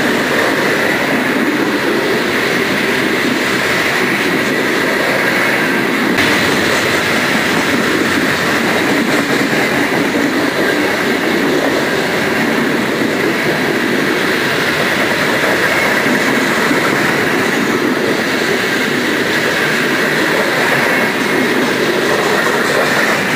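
Coal cars of a CSX freight train rolling steadily past: a loud, continuous noise of steel wheels running on the rails.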